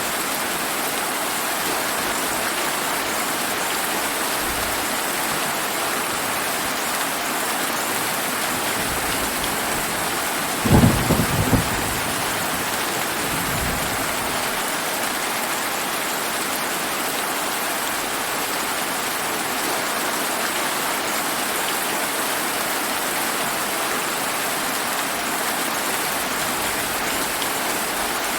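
Steady heavy rain falling, with a short low rumble of thunder about ten seconds in and a fainter rumble just after.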